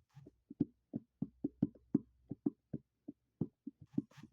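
A quick, uneven run of knocks or taps, about five a second, like a beat tapped out by hand, with a short breathy hiss near the end.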